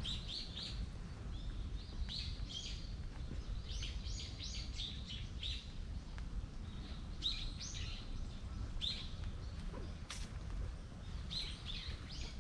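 Small birds chirping in short clusters of high notes, repeated again and again, over a low steady rumble.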